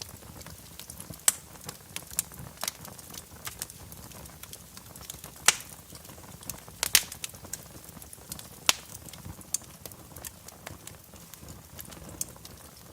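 Fire crackling in a fireplace: irregular sharp pops and snaps over a soft steady hiss, the loudest pops about five and a half and seven seconds in.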